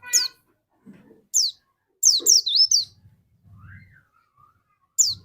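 Pleci dakun white-eye singing in short, sharp, high notes that each fall in pitch, with a quick run of several notes about two seconds in and more near the end.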